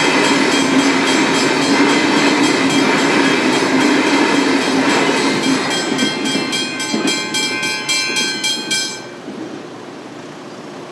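A train passing over a level crossing while the crossing bell rings in rapid, evenly spaced strokes. The bell cuts off and the train noise falls away about nine seconds in.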